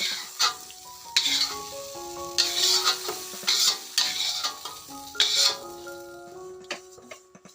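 Food sizzling as it fries in a pan, stirred with a utensil that scrapes across the pan every second or so.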